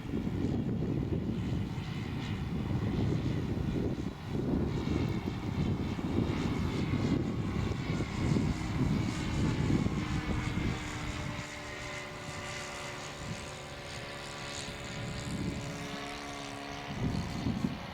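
Radio-controlled model airplane's Saito 40 glow engine and propeller droning as it flies past. The pitch slides as the plane moves, over a low rumble of wind on the microphone.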